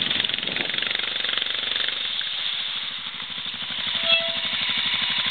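Off-road vehicle engine running with a rapid, even chugging pulse, over a steady hiss.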